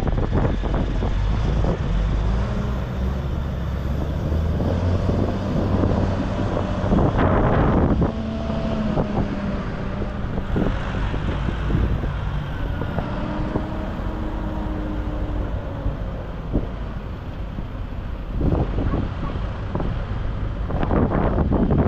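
Tractor engines running as tractors drive past, several pitched engine notes slowly rising and falling, with wind buffeting the microphone.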